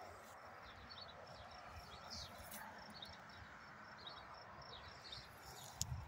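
Faint birds chirping outdoors, a string of short high notes repeating over a soft steady hiss.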